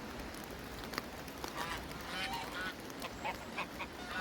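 A run of short honking bird calls in quick succession, beginning about a second and a half in, over a steady hiss of rain with a few sharp drip ticks.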